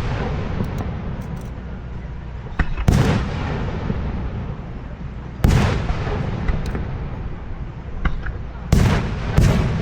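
Aerial fireworks shells bursting with deep booms. One comes about three seconds in, another halfway through, and two close together near the end, each trailing off in a long rumble. Faint crackles sound between them.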